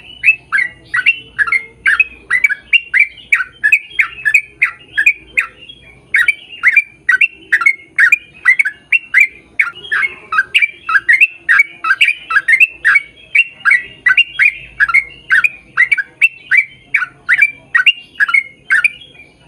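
A bird calling over and over, short falling calls about two or three a second, with a brief pause about five seconds in.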